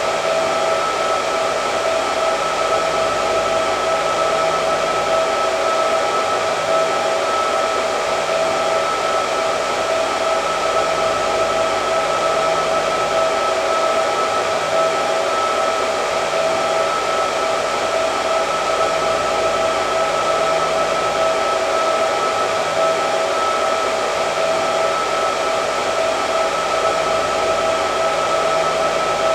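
Hair dryer running steadily: a constant rush of air with a steady motor whine on top, unchanging throughout.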